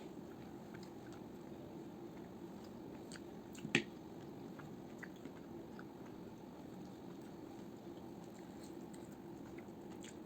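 A person chewing food close to the microphone, with small wet clicks of the mouth and one sharper, louder click about four seconds in, over a steady low background hum.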